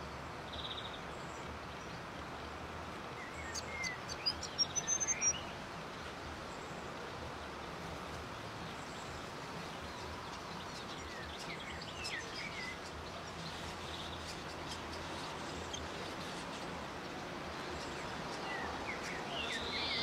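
Grey fantails chirping at the nest: short, high, thin calls in a few clusters about four, twelve and nineteen seconds in, the loudest around four to five seconds in, over a steady hiss of background noise.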